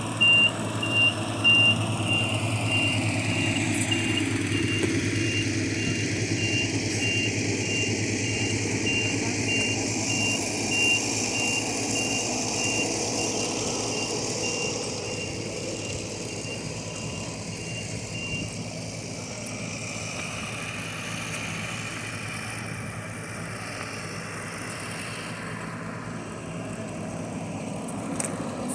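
Vehicle engine running steadily with a reversing beeper sounding evenly spaced high beeps; the beeping stops about two-thirds of the way through while the engine keeps running.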